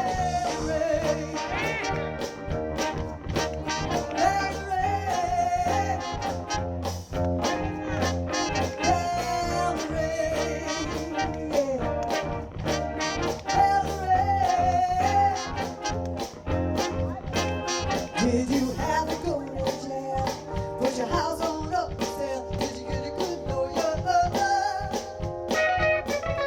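Live soul band playing an instrumental passage: a steady drum beat and bass line under a wavering lead melody line.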